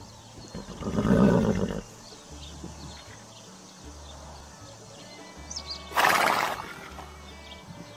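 A horse neighing about a second in, then a second, noisier horse call around six seconds in, over background music with a steady low pulse.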